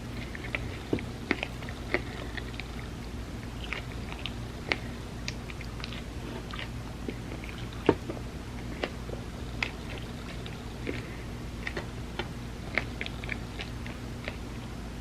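Close-miked chewing and mouth sounds of someone eating an ice cream sandwich: irregular soft wet smacks and clicks, with a sharper one about eight seconds in, over a steady low hum.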